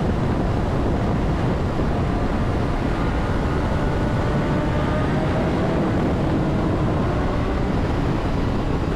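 Wind rushing over the helmet microphone while riding a 2009 Honda CBR600RR, with its inline-four engine faint underneath. The rush is steady, and the engine's pitch drifts slowly up in the middle.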